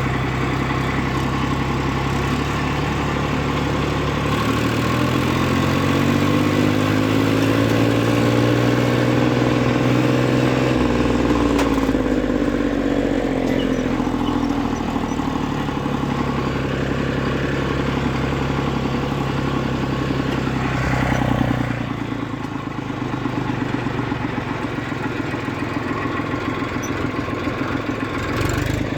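Diesel tractor engines running hard in a tractor race, the engine note climbing over several seconds and sinking again, then holding steady before dropping lower and quieter about three-quarters of the way through.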